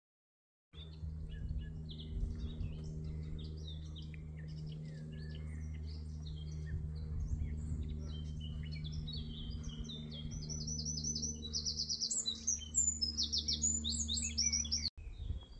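Several songbirds singing and chirping, with a fast trill of rapidly repeated high notes about ten seconds in, over a steady low hum. The sound starts abruptly about a second in and cuts off just before the end.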